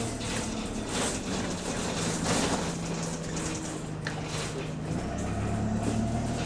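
Bus engine running, heard from on board, with the engine note changing about five seconds in and short bursts of hiss in the first few seconds; the bus has an exhaust leak.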